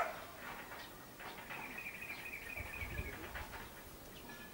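A bird calling outdoors: one thin, high whistle held for about a second and a half, falling slightly in pitch. A sharp click comes at the very start.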